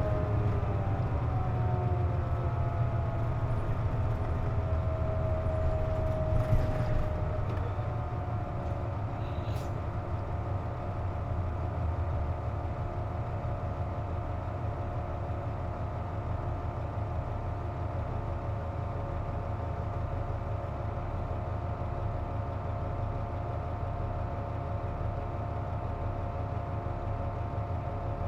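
Inside a KC-JP250NTN city bus, the engine note falls as the bus slows over roughly the first seven seconds. After that a steady whine of several tones holds over the idling engine's rumble: the abnormal noise this bus makes with its air conditioning running. A couple of faint clicks come a few seconds in.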